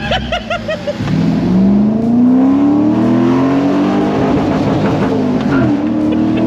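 Car engine accelerating hard, its note climbing steadily in pitch, then briefly dropping near the end as it shifts up a gear and pulls on.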